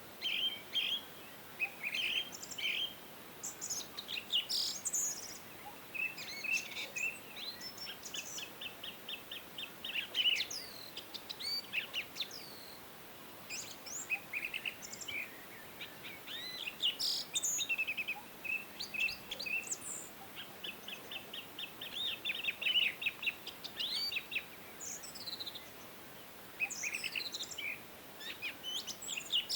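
Several songbirds singing and chirping together, with quick chirps and rapid trills of repeated notes, over a faint steady background hiss.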